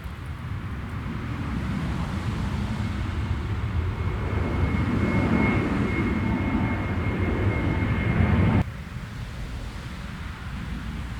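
Jet airliner's engines passing close by: a deep rumble with a steady high whine, growing louder over about eight seconds, then cut off suddenly to a fainter rumble.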